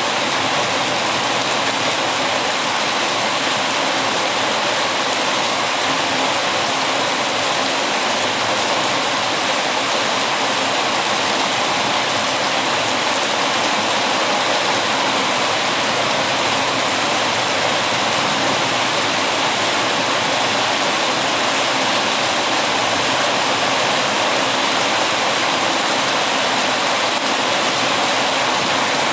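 Heavy, steady rain: an even, unbroken hiss with no pauses or separate drops standing out.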